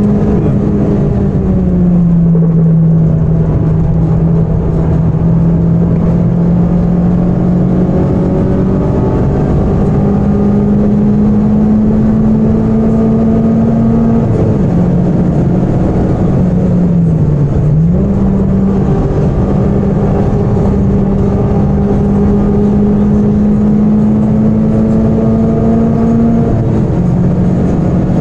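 Citroën Saxo VTS 16V's 1.6-litre 16-valve four-cylinder engine, heard from inside the cabin at full throttle on track, its note climbing slowly under load and dropping sharply at upshifts about halfway and near the end, with a brief dip in between. Road and wind noise run underneath.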